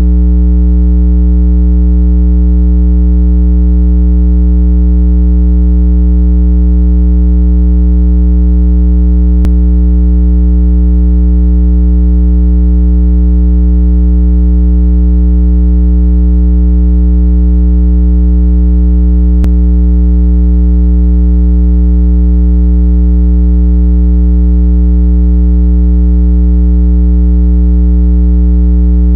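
Synthesized 165 Hz water-eject tone playing loud and unchanging, a steady low hum with a stack of overtones, meant to shake trapped water out of earbud and phone speakers. A faint click comes twice, about ten seconds apart, where the tone loops.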